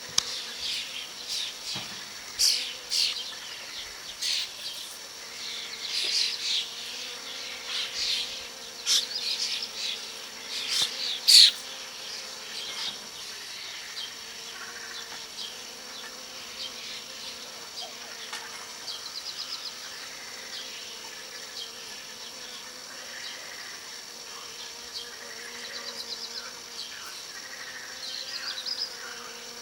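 Insects buzzing with a steady drone, while birds call over it: a run of loud, sharp chirps in the first twelve seconds, then fainter quick trills now and then. A steady high-pitched insect chorus runs underneath.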